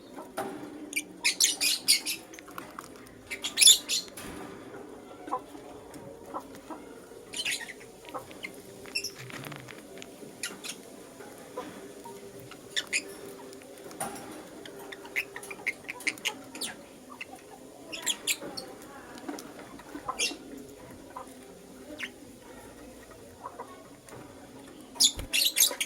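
Lutino lovebirds chirping: scattered short, high-pitched squeaky chirps, with dense chattering bursts about a second in, around four seconds and again near the end.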